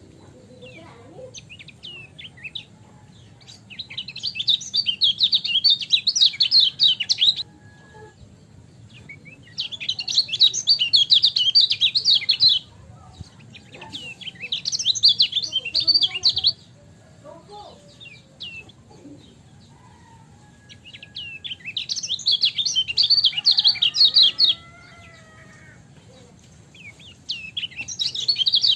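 Lemon-bellied white-eye (kecial kuning) singing in repeated bursts of fast, high chattering song, each about three seconds long, with short single chirps in the gaps between bursts.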